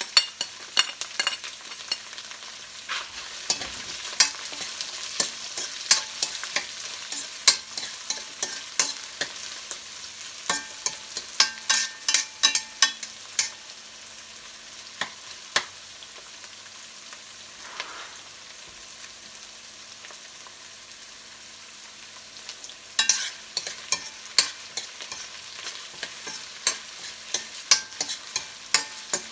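Sliced onion frying with browned garlic in hot oil, sizzling steadily, while a spatula scrapes and knocks against the pan as it is stirred. The sharp stirring strokes come thick through the first half, ease off for several seconds, then pick up again near the end.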